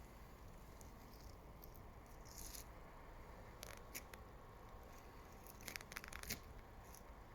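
Near silence: faint background rumble with a few soft, scattered clicks, a small cluster of them about six seconds in.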